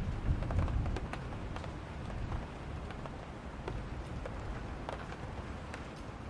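Thunderstorm: steady rain with single drops ticking close by, over a low rumble of distant thunder that is strongest in the first second and then eases.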